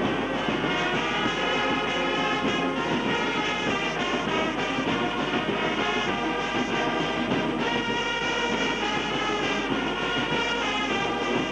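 Brass band playing a tune in held, steady chords of several instruments together.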